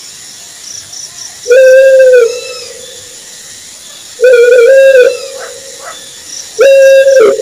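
An owl hooting: three long, loud, steady-pitched hoots about two and a half seconds apart, each dropping slightly at the end and trailing off in a fading echo.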